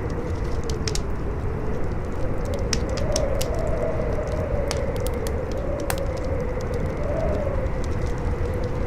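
Campfire crackling with irregular sharp pops over a steady howling wind whose pitch slowly rises and falls, with a low rumble underneath.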